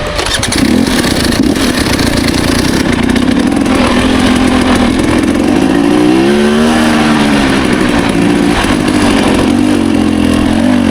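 Two-stroke dirt bike engine running under throttle while riding, picking up about half a second in, with the revs rising and falling briefly about six seconds in.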